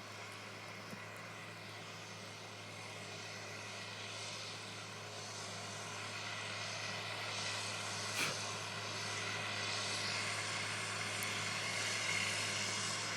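Caterpillar Challenger 55 tracked tractor's diesel engine running steadily while pulling a disc harrow, growing gradually louder, with one short sharp knock about eight seconds in.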